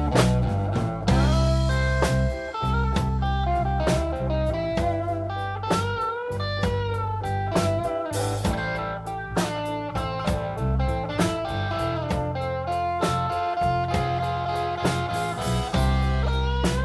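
Blues band playing an instrumental break: a lead electric guitar plays bent, wavering notes over bass and drums.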